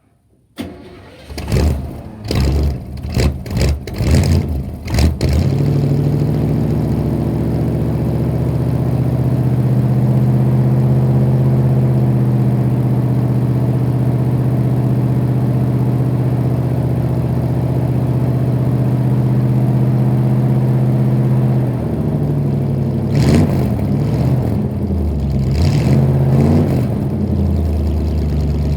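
1986 Chevrolet engine heard at the tailpipe: it cranks and catches, is blipped several times, then idles steadily. About three-quarters of the way through it is revved a few times and settles back to idle.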